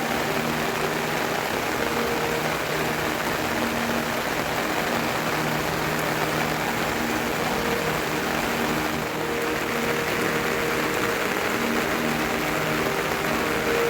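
Steady heavy rain falling, an even hiss that holds at one level throughout, with faint held low tones coming and going underneath.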